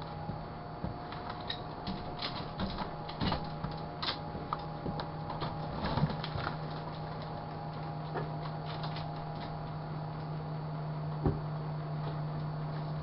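Sharp Carousel microwave oven running with a steady low hum, while a bell pepper heats inside. Scattered sharp clicks and crackles come through the hum, thickest in the first eight seconds or so, with one louder click near the end.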